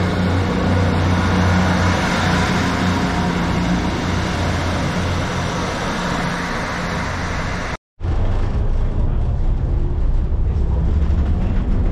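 Train running noise: a steady hum and rumble with a broad rushing noise. An edit cuts it off about eight seconds in, and it gives way to a lower, duller rumble with a faint rising whine near the end.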